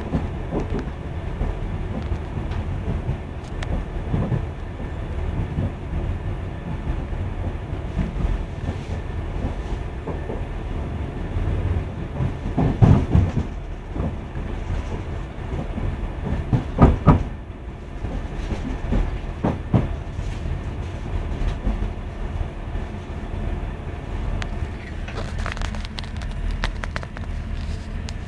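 Passenger train running, heard from inside the carriage: a steady low rumble of wheels on track with scattered clicks from the rail joints. A few louder knocks come in two clusters about halfway through and again a few seconds later.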